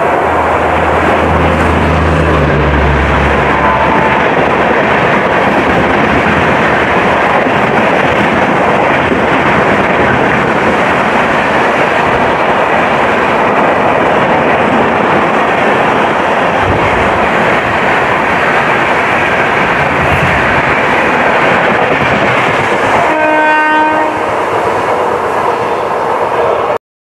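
Express passenger train running through a station at full speed close by: a loud, steady rush and rattle of wheels on rail, with the locomotive's low hum in the first few seconds. A train horn sounds about 23 seconds in, and the sound stops abruptly just before the end.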